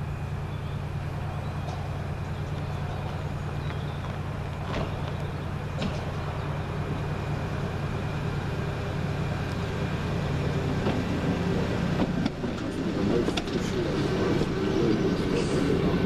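Railway diesel engine running steadily at the platform, with a few brief knocks. Louder rumbling builds over the last few seconds as another train approaches.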